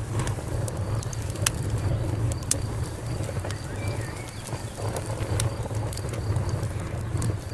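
Wood fire crackling: sharp pops and snaps at irregular intervals over a low, steady rumble of burning.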